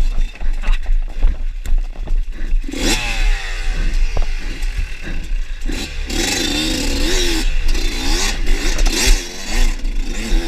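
Dirt bike engine running under the rider and revving, its pitch climbing steeply about three seconds in, then rising and falling with the throttle. Low wind rumble on the microphone and scattered knocks and clatter run throughout.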